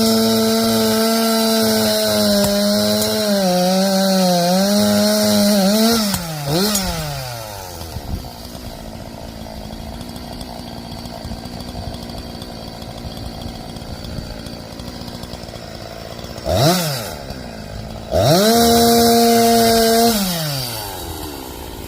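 Two-stroke chainsaw held at full throttle, its pitch dipping a few times under load as it cuts wood, then dropping to idle about six seconds in. After a long idle it is blipped once, then revved high for about two seconds before falling back to idle near the end.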